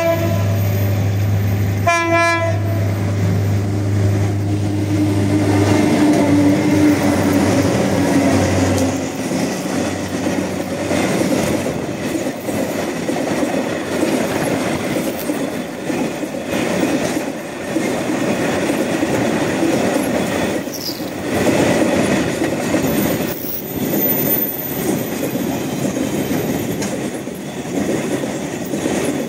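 A train horn blast cuts off at the very start, with a second short blast about two seconds in. A diesel locomotive's engine drones as it passes, fading out by about nine seconds, followed by the steady rumble and clickety-clack of wagons rolling by.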